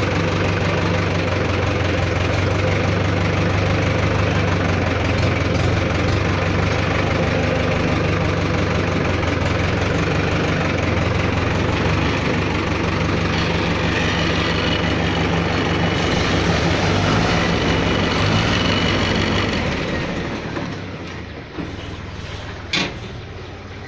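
A tractor's diesel engine idling steadily, then stopping about twenty seconds in and leaving only fainter background noise. A single sharp click follows near the end.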